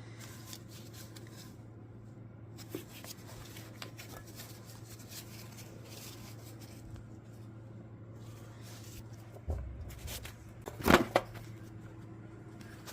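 Parts or tools being handled during an engine teardown: scattered small clicks over a steady low hum, then a dull bump about nine and a half seconds in and a louder knock about a second later.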